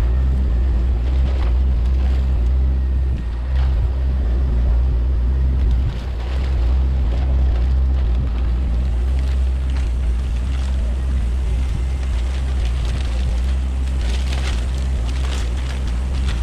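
Fishing boat's engine running with a steady low drone, wind buffeting the microphone, and a few knocks near the end.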